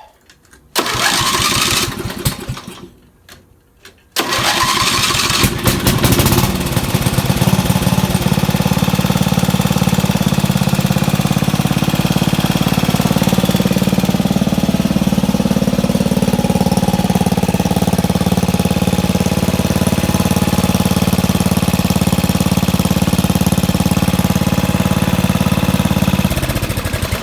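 A riding lawn tractor's 12-horsepower flathead engine is started with the electric starter. It cranks for about three seconds without catching, cranks again about four seconds in and fires, then settles into steady running. About a second before the end the engine is shut off.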